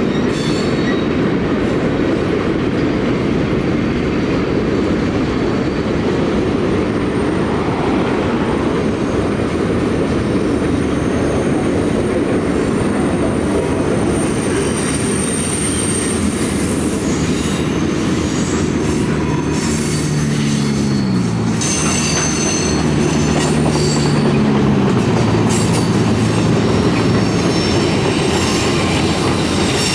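Freight cars rolling past: a steady rumble of steel wheels on rail, with high wheel squeal coming and going in the second half. A low droning tone steps down in pitch about two-thirds of the way through.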